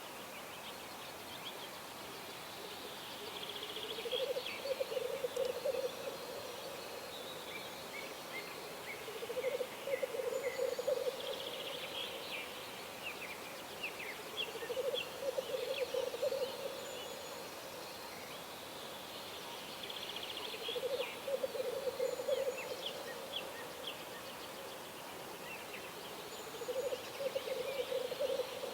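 Wild birds singing at a pond, with high twittering song fragments and a low, pulsing call about two seconds long repeated about every five to six seconds.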